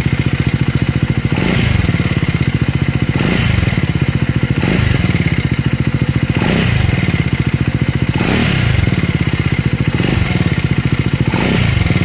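Triumph 400 single-cylinder motorcycle engine running, blipped with short throttle revs about every second and a half to two seconds, each rev rising and dropping back to idle.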